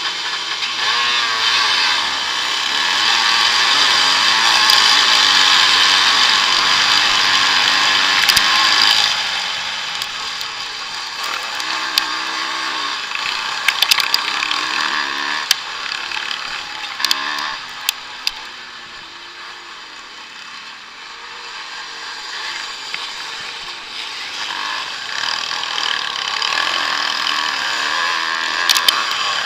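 Vintage motocross motorcycles racing, their engines revving up and down as they pass. The engines are loudest about a third of the way in, fade around the middle and build again near the end, with a few sharp clicks along the way.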